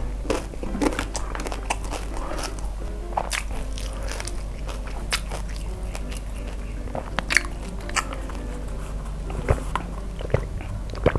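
Close-miked mouth sounds of a person chewing food, with crisp crunches and wet mouth clicks scattered throughout, and sips of a drink through a straw in the middle.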